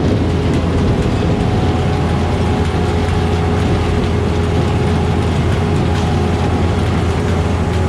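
Kleine sugar beet harvester working: a steady diesel engine drone with a constant low hum and the clatter of the machinery.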